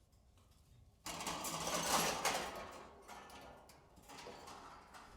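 Pigeon wings flapping in a rapid flutter. The sound starts suddenly about a second in, lasts about two seconds, then dies into lighter scuffling.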